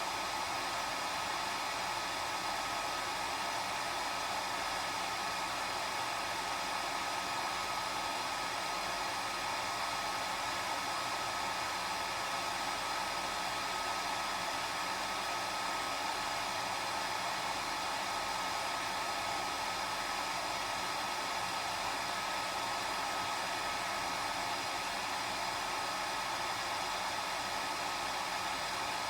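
Hair dryer running steadily: an even rush of air with a steady motor whine over it.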